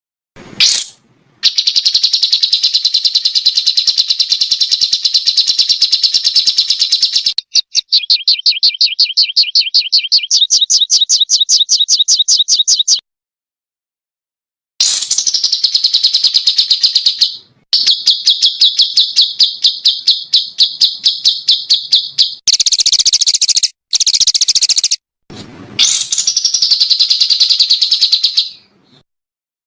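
Small songbird's 'tembakan' song: long runs of very rapid, high-pitched repeated notes, several bursts a few seconds each, separated by short dead-silent gaps, with a brief rising sweep at the start.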